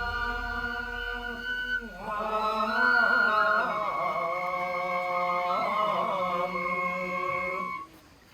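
Nenbutsu kenbai accompaniment: voices chanting over long, steady notes that are typical of a bamboo transverse flute, with no drum beats. The music breaks off briefly near the end.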